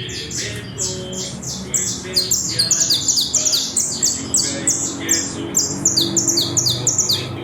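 Saffron finch (Colombian canario criollo) singing loud and clear: a fast run of short, high notes that slur downward. Over the last five seconds the notes come faster and louder.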